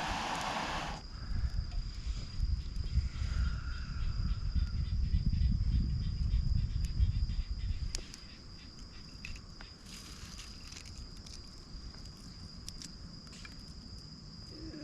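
Insects trilling steadily at a high pitch, with a loud hiss in the first second and a heavy low rumble that stops about eight seconds in, plus scattered small clicks.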